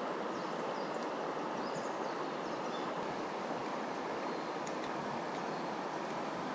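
Mountain stream water rushing steadily over rocks, with a few faint high chirps over it.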